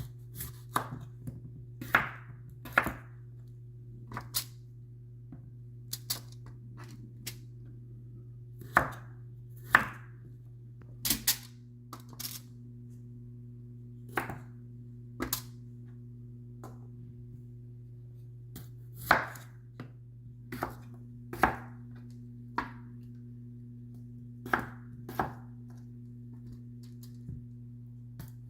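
Knife cutting vegetables on a chopping board: single sharp strikes at irregular intervals, usually a second or more apart, over a steady low hum.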